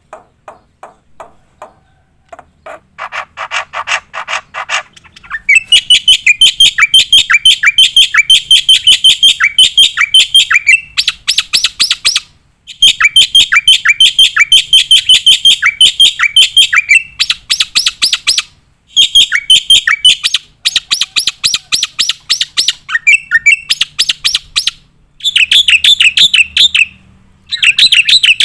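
Black-winged myna (jalak putih) singing: soft ticking notes that quicken over the first few seconds, then loud, fast trains of repeated sharp notes, broken by several brief pauses.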